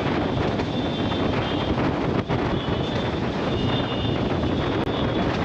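Passenger train running, heard from its roof: a steady rumble of the carriages on the track mixed with wind blowing on the microphone.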